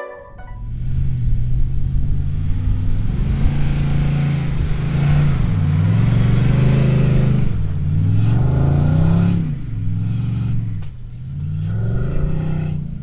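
Nissan Y62 Patrol's V8 petrol engine working hard while towing a heavy caravan through soft beach sand, its note rising and falling several times as the throttle is worked. It is loudest about halfway through as it passes, then eases off as it pulls away.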